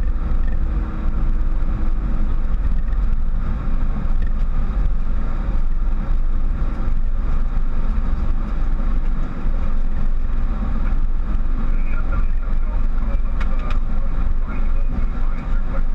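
Steady, loud rumble of engine and airflow noise on the flight deck of a Boeing 737.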